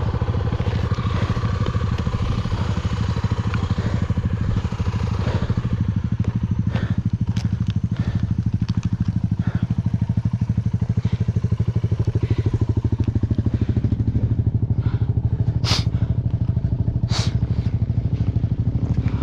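Single-cylinder engine of a Honda XR Tornado 293 enduro motorcycle running at low revs with an even pulse. The engine speed falls off about halfway through. Two sharp knocks come near the end.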